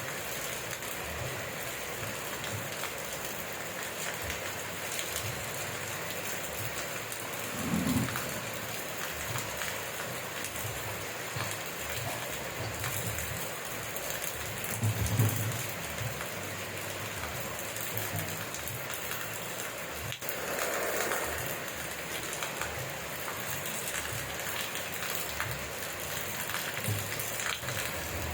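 Steady rain falling, an even hiss of drops, with two brief low thumps, about a quarter of the way in and again about halfway.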